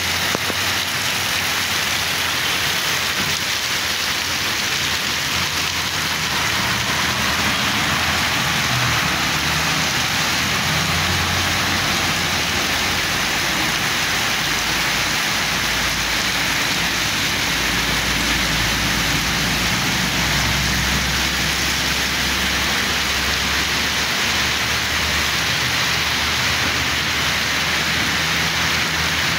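Very heavy rain pouring down and splashing on a flooded road, a steady, even hiss. Through the middle stretch, the low rumble of vehicles driving through the downpour runs underneath it.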